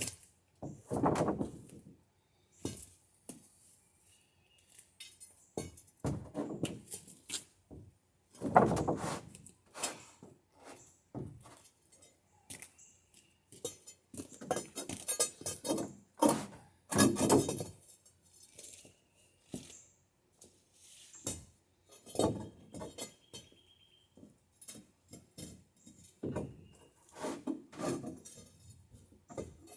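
Wooden boards being shifted on a stacked lumber pile: irregular knocks, clacks and thuds of planks against each other and the stickers, the heaviest thumps about a second in, around nine seconds and around seventeen seconds.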